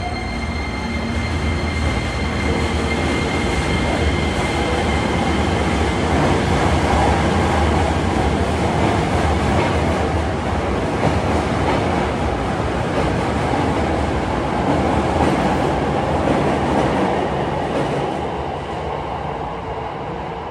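Hankyu 9300 series electric train accelerating out of an underground station. The traction motors whine, rising in pitch at the start, then the wheels and cars rumble past with some clickety-clack, fading near the end as the last car leaves.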